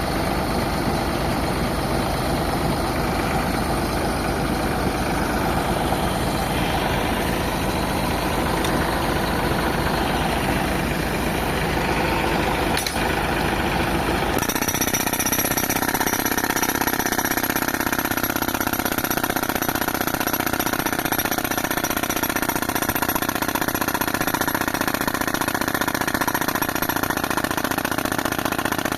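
Pneumatic jackhammer hammering rock in a rapid, steady rhythm, driven by a tractor-mounted air compressor whose engine runs underneath. About halfway through the hammering stops abruptly and the engine and compressor run on steadily.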